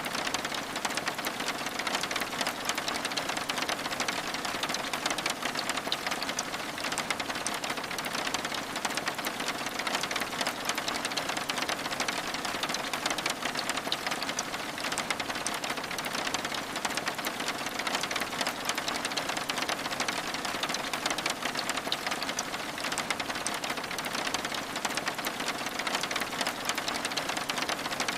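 Steady rain pattering against a window pane, a dense, even mass of fine drop ticks that never lets up.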